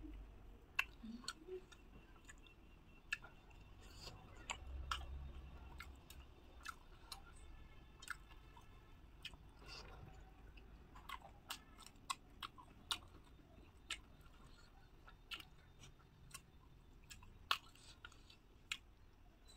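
A person chewing food with wet mouth clicks and smacks coming at irregular intervals.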